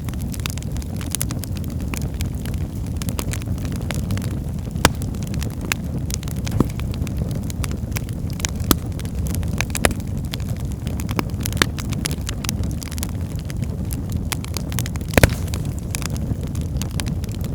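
Fireplace fire burning, with a steady low rumble and irregular crackles and pops; a few pops stand out louder than the rest.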